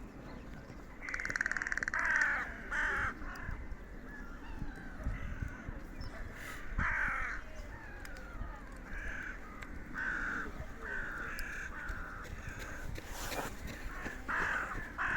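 Birds calling with many short, harsh, caw-like calls, several of them sliding down in pitch, one after another over a low background rumble.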